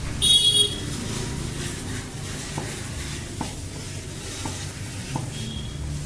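A short high-pitched squeal in the first second, then a few light clicks over a steady low hum.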